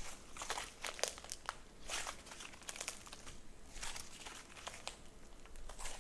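Slime being handled by hand, squished and stretched, giving irregular crinkly, crackling pops several times a second.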